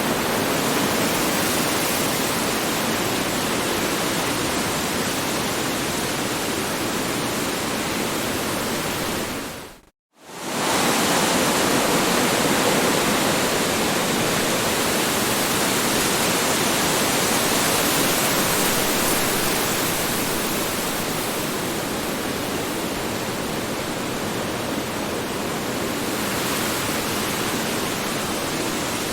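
Strong wind blowing as a steady rushing noise. About ten seconds in it fades out to a brief silence, then comes straight back.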